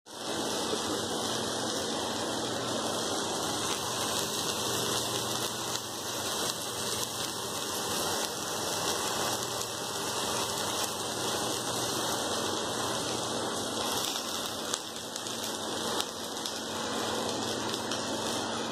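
Dried red chillies, tomato and chopped vegetables frying in oil in a steel kadai, a steady sizzle with fine crackles.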